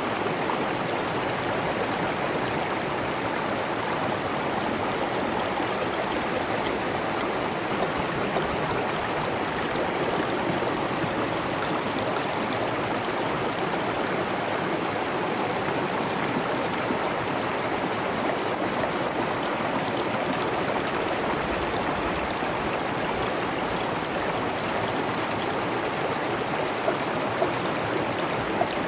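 Steady rushing and trickling of a flowing stream, constant throughout.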